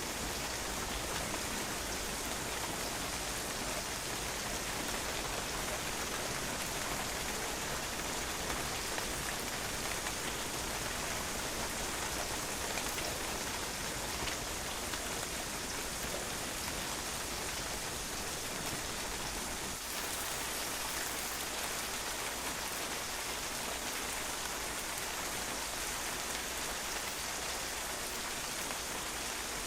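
Steady rain falling on a patio, drops pattering on the hard surface in an even hiss.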